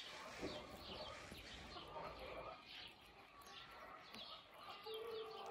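Small birds chirping faintly: short, quick chirps that fall in pitch, about two a second.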